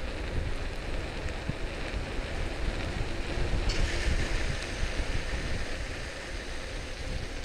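Wind buffeting the microphone with a low rumble while cycling, with a louder hissing rush about halfway through.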